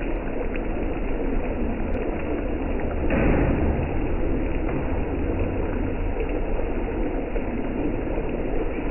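Steady roar of a restaurant kitchen stove while chicken karahi cooks, with a low hum underneath and a brief louder surge about three seconds in.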